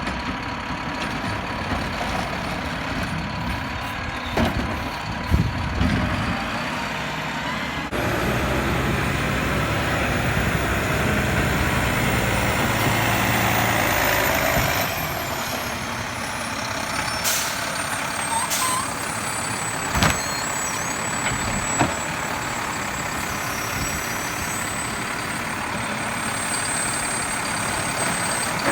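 Garbage truck running, its engine noise swelling for several seconds in the middle, with a few sharp metallic clanks.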